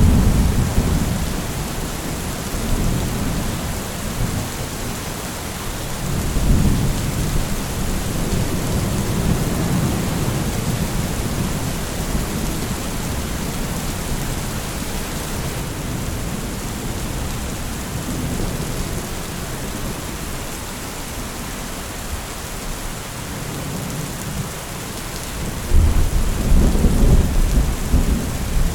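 Steady heavy rain with rolling thunder: low rumbles swell near the start and around six seconds in, and a louder clap of thunder comes near the end.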